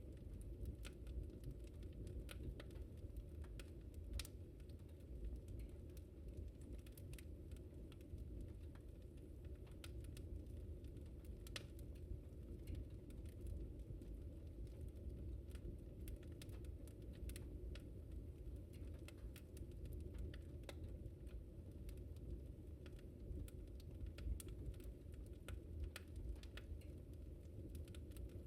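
Wood fire burning in a fireplace, with a steady low rumble of flames and irregular sharp crackles and pops of burning logs.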